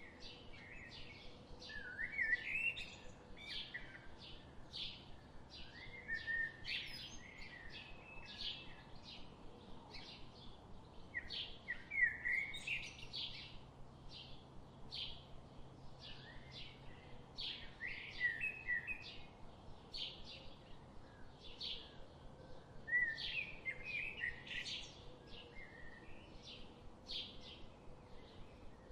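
Songbirds in a forest: a steady series of short, high chirps about two a second, with a lower warbling phrase breaking in every few seconds.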